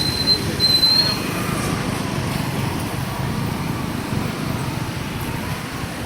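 Steady rumble of a motorcycle riding through city traffic, with road and wind noise. A thin high-pitched tone sounds briefly in the first second.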